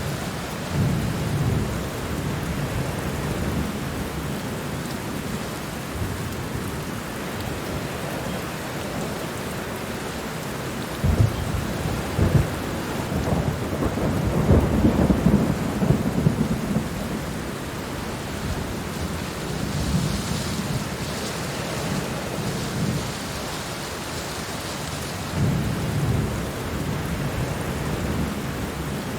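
Heavy rain pouring steadily, with low rumbles that swell and fade several times and are loudest from about a third to past the middle, with a couple of sharp cracks among them.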